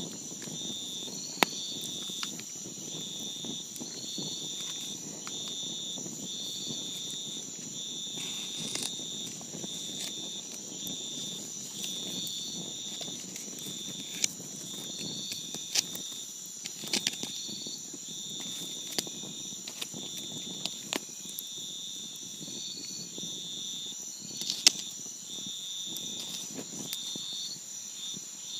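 Campfire crackling, with occasional sharp pops and a low hiss, under a steady high-pitched insect chorus, one voice of which pulses in short regular chirps.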